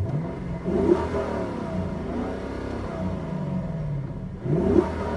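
Lexus LC500's 5.0-litre V8 revved while standing in Sport Plus mode: the engine note jumps up at the start, holds and eases back, then rises sharply again near the end.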